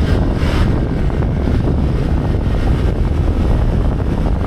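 Steady low rumbling noise, with wind buffeting the microphone.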